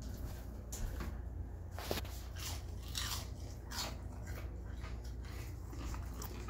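A person chewing a bite of food close to the microphone, the chews coming irregularly about two a second.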